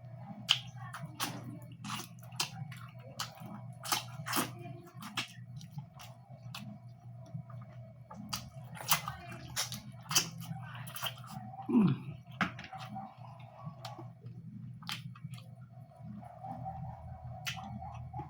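Close-miked eating of pork belly and pork tail curry: wet chewing with frequent sharp lip smacks and mouth clicks, irregular in timing, over a steady low hum. A short falling tone sounds about twelve seconds in.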